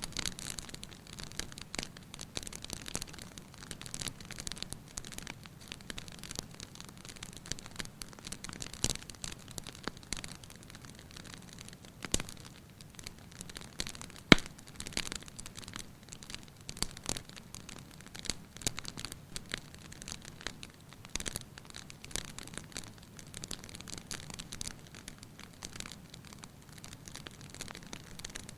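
Fire burning in a fireplace, crackling steadily with many small pops over a soft hiss, and one sharp, much louder pop about halfway through.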